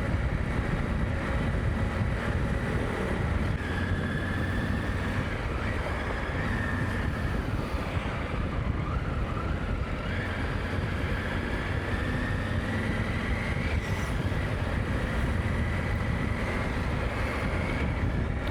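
Motorcycle riding along a road: steady engine and road noise with wind buffeting the microphone, and a faint whine that drifts slowly up and down in pitch.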